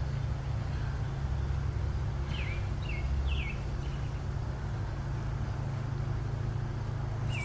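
A steady low outdoor rumble, with a bird giving three quick down-slurred chirps a little over two seconds in.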